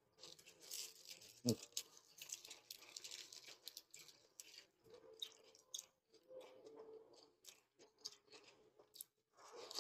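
Faint close-up chewing with soft, irregular crunches and small clicks, while a crisp lettuce leaf is handled and folded.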